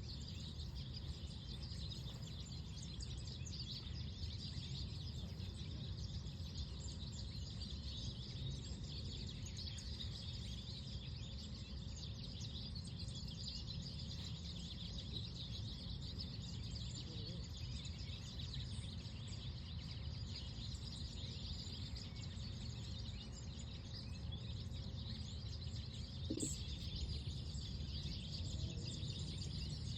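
Outdoor park ambience: many small birds chirping over a steady low rumble of breeze and background noise. A brief louder sound stands out about 26 seconds in.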